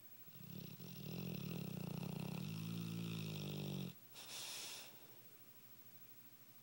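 A sleeping Dogue de Bordeaux snoring: one long buzzing snore of about three and a half seconds, then a short breathy puff.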